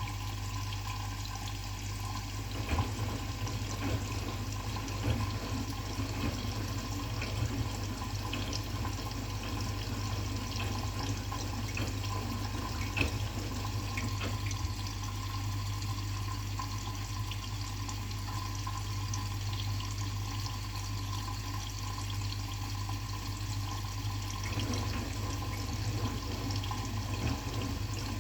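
Washing machine with curtains inside, water running in and sloshing over a steady low hum, with scattered small clicks.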